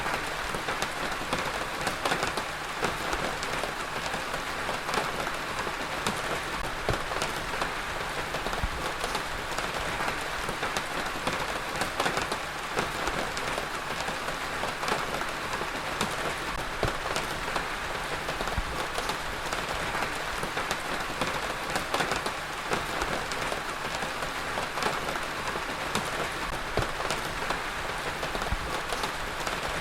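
Heavy rain falling steadily, a dense hiss with many individual drops pattering on a surface.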